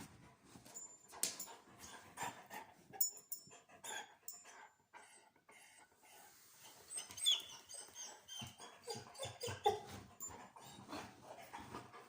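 A frustrated dog whining and panting while it is held off something it wants, with short high whimpers around the middle. Scattered clicks and knocks run through it.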